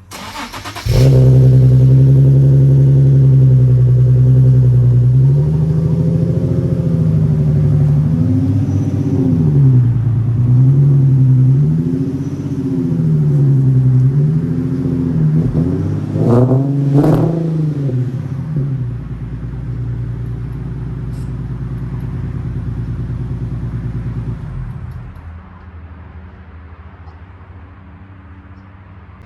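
Nissan 370Z's 3.7-litre V6 cranks and starts about a second in, then runs with its note rising and falling gently several times. Two quick revs come just past the middle, after which it settles to a quieter idle, and the engine note drops away near the end.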